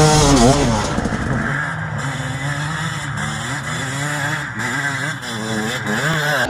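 Off-road trail motorcycle engines revving hard and unevenly, their pitch rising and falling quickly as the throttle is worked on a slippery muddy climb.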